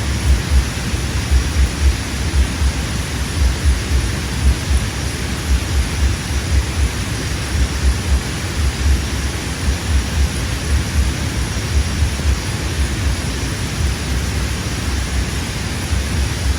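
Wind buffeting the microphone: a loud, gusting low rumble under a steady hiss.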